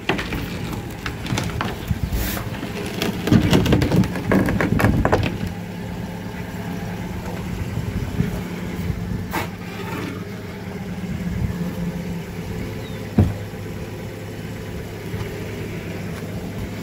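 Car engine idling steadily. Knocks and scrapes of a wooden gate being opened come about two to five seconds in, with a single sharp knock later on.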